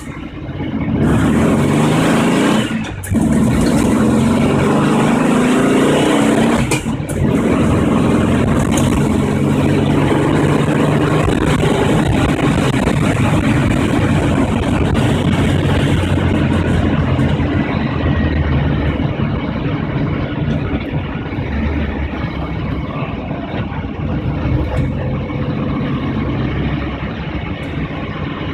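1973 Volkswagen Beetle's air-cooled flat-four engine accelerating through the gears. Its pitch climbs twice, each climb ending in a brief drop at an upshift about three and seven seconds in, then it settles into steady cruising. It is heard from inside the stripped cabin, which has no interior trim.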